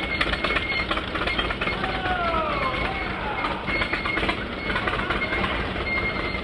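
Antique tractor running as it moves past, a steady dense mechanical clatter, with voices in the background.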